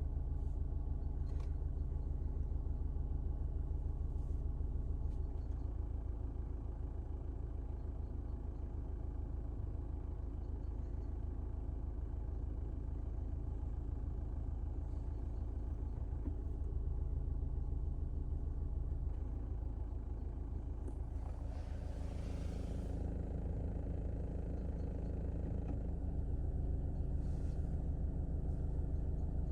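Inside the cabin of a 2020 Škoda Octavia with DSG gearbox: a steady low engine hum with a few faint, sharp clicks now and then, the rattle that is heard only inside the car. A brief rush of noise comes about 21 seconds in.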